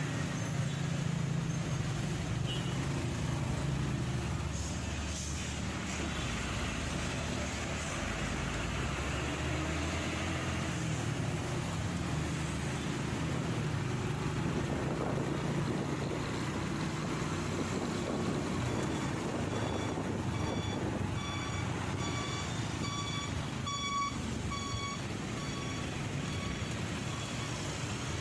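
Motorcycle riding in city traffic: a steady engine hum with road and wind noise. Starting about two-thirds of the way in, an electronic beep repeats about one and a half times a second for several seconds, then stops.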